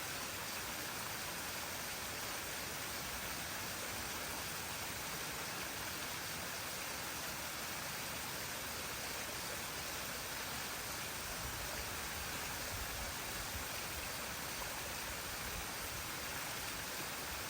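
Waterfall water falling and rushing in a steady, even hiss.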